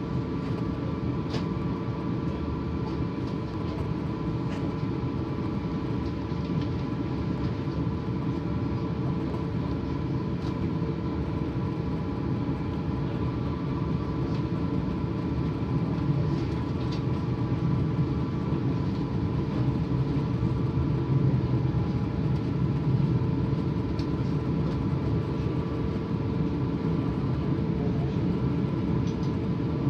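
Siemens Desiro Class 450 electric multiple unit pulling away, heard from on board: a steady low running rumble with several steady whining tones over it, getting a little louder about halfway through.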